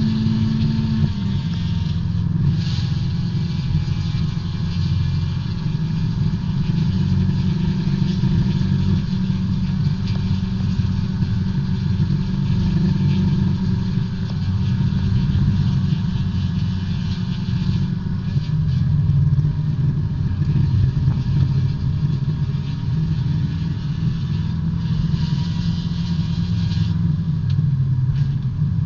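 B-Spec race car's small four-cylinder engine running hard under load, heard from inside the car. The pitch steps down slightly about a second in, then holds fairly steady, with a hiss of road noise over it.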